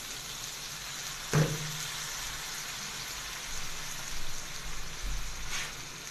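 Chicken, tomatoes and garlic water sizzling in hot ghee in an iron karahi, a steady frying hiss. There is a single knock about a second and a half in.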